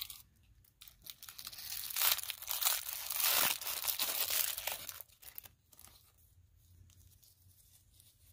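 Small plastic wrapper of a surprise-doll accessory being torn open and crinkled. The crackling is loudest for a few seconds in the middle, then fades to light rustling.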